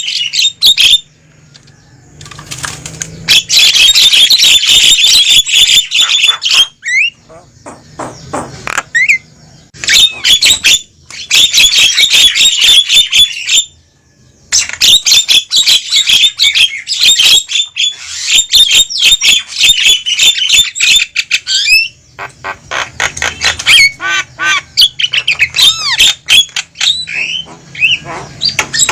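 Javan mynas calling noisily: long bouts of harsh, rasping chatter mixed with a few whistled notes, broken by short pauses, with looser scattered calls near the end.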